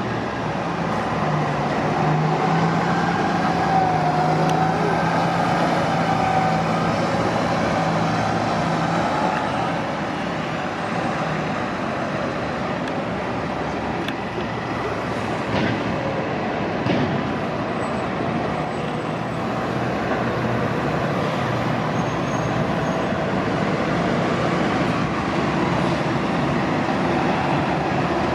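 Diesel city bus running and moving through a bus terminal, its engine hum joined by a wavering transmission whine. The sound grows louder a couple of seconds in and eases off after about nine seconds, leaving steady traffic noise.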